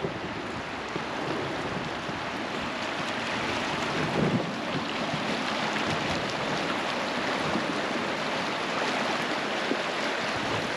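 River water rushing and lapping around a floating raft, a steady wash of noise with a brief louder splash about four seconds in.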